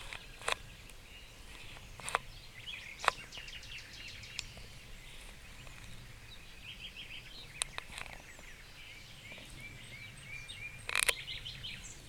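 Songbirds singing in rapid trills of short repeated notes, over a low steady background rumble. Several sharp clicks cut in, the loudest about three seconds in and a longer one about a second before the end.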